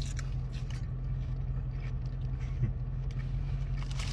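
Steady low drone of a car running, with a few faint crunches of someone chewing a lettuce-wrapped sandwich.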